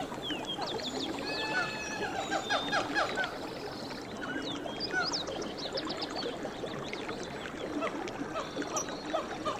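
Dense chorus of short chirping and whistling calls, many quick rising and falling notes overlapping, over the steady rush of a flowing stream.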